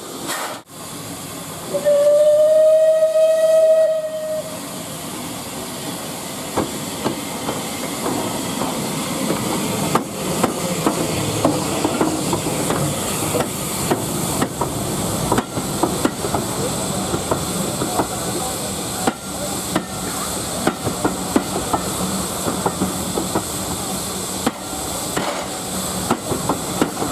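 Steam locomotive whistle blown once, a single steady note of about two seconds a couple of seconds in. Then a steady hiss of steam and the clicking of wheels over rail joints as the train runs by.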